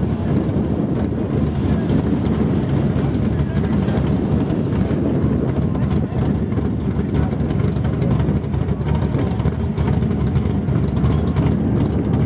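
Drag car engine idling at the starting line while staged, a steady low rumble with no revving.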